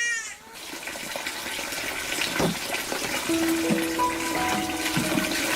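Water running with a steady rushing hiss. Background music with held notes fades in about three seconds in.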